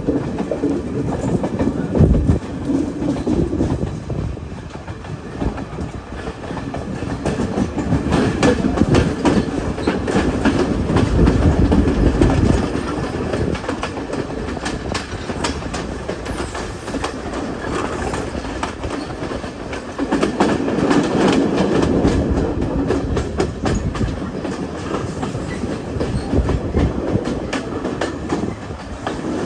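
Passenger train running along the track: a continuous rumble with the wheels clattering over rail joints, growing louder for a few seconds at a time and easing off again.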